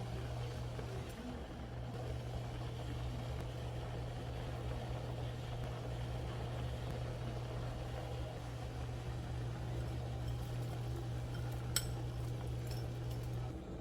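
Steady low electrical hum of a running appliance motor, which cuts off near the end, with a single light clink about twelve seconds in.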